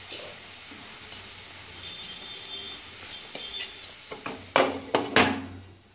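Curd-based masala sizzling in hot oil in a kadai, then several loud clinks and knocks about four and a half seconds in as a glass pot lid is set onto the pan, after which the sizzle dies down.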